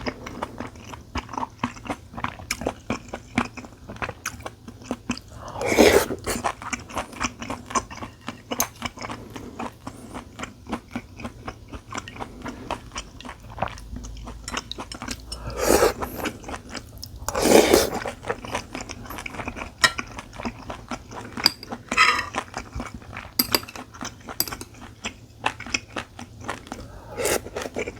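A person eating close to the microphone: steady chewing with many small wet mouth clicks, and a few louder, fuller mouthfuls, at about 6 seconds, twice around 16 to 18 seconds, and near the end. The meal is tteokguk rice cake soup and japchae glass noodles.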